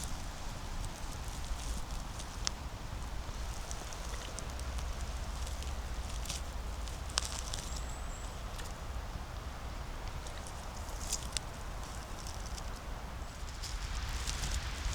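Footsteps crunching through dry leaves and twigs on the forest floor: irregular crackling with a few sharp snaps, over a low rumble.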